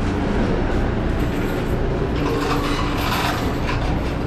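Steady low rumble and hum inside a standing train car, with a constant hum tone throughout. Some rustling clatter in the middle.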